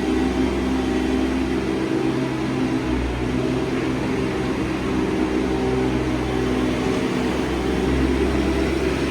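Heavy machine engine running steadily under varying load, heard as from inside the cab, while it works at breaking out an old concrete feeding trough.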